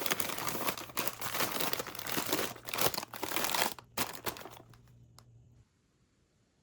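Crinkling and rustling of packaging being handled by hand, dense and irregular. It thins out after about four seconds and stops a little before the end.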